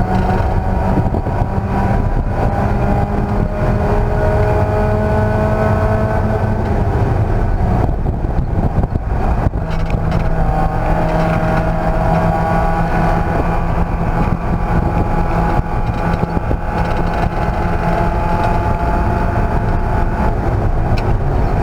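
Race car engine running hard at speed, its pitch climbing slowly in long pulls over heavy road and wind rumble. It eases off briefly about halfway through, then pulls up again.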